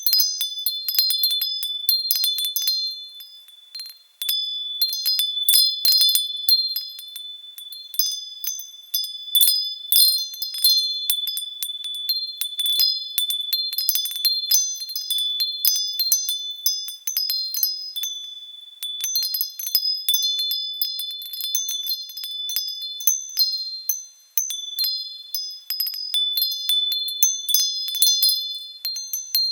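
Wind chimes ringing in the wind: clusters of high, bright metallic tones struck irregularly, overlapping and ringing on. The chimes die down briefly about four seconds in and again near the end before picking up again.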